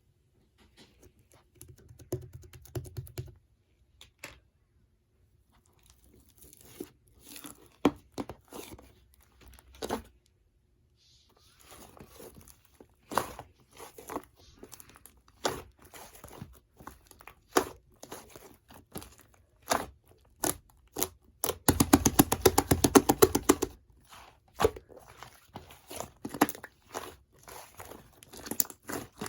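Fluffy slime being squished and stretched by hand, giving sticky popping and crackling clicks, with a dense run of crackling about three quarters of the way through.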